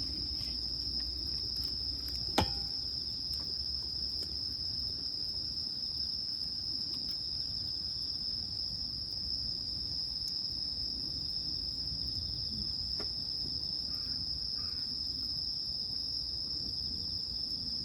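A chorus of crickets trilling steadily and continuously. A single sharp snap cuts through about two seconds in.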